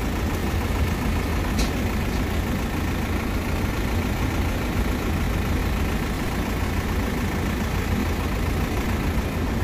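A Nissan refrigerated delivery truck's diesel engine idling steadily, a low, even running sound.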